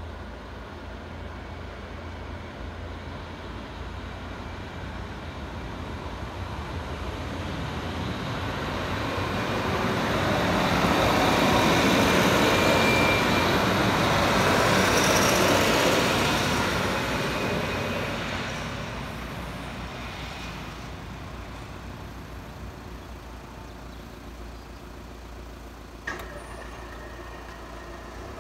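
Two-car Class 153 diesel multiple unit passing over the level crossing, its engine and wheel noise building to a peak about halfway through and fading away over several seconds. Near the end, a sharp clunk and a steady whine as the Siemens S60 crossing barriers start to rise.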